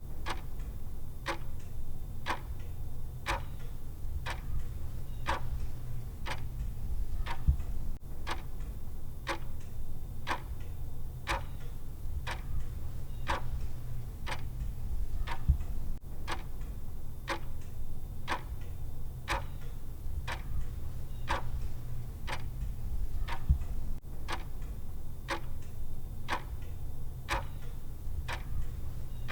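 Clock-style timer ticking, one sharp tick about every second, over a steady low hum, with a stronger low knock about every eight seconds.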